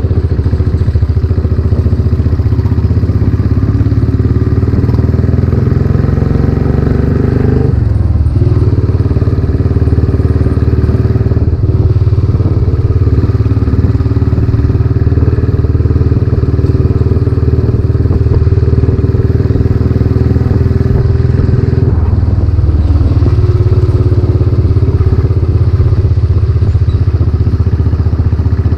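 Royal Enfield Classic 500's single-cylinder engine running under way through a newly fitted exhaust silencer. The engine note breaks briefly about eight seconds in and changes again a little after twenty seconds.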